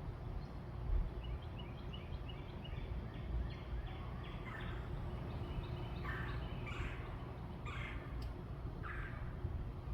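Backyard birds calling: a run of short high chirps, then about five louder, harsh calls spaced a second or so apart, over a steady low rumble.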